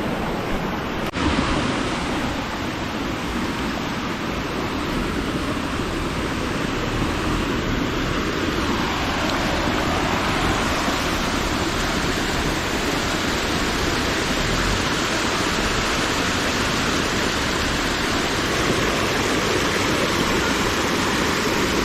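Waterfall: a steady rush of falling water, with a single sharp click about a second in.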